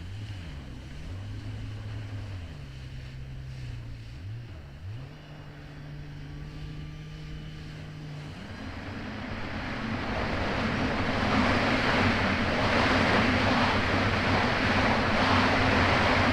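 Kawasaki Ultra 300X jet ski's supercharged four-cylinder engine at low revs, its pitch rising and falling with the throttle, then holding steady. About eight seconds in it revs up and the ski accelerates, with the rush of water and wind growing louder.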